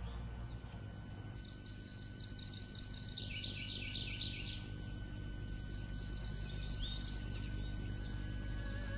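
Small birds chirping: a run of quick, high chirps a couple of seconds in and a few more later, over a low steady background rumble.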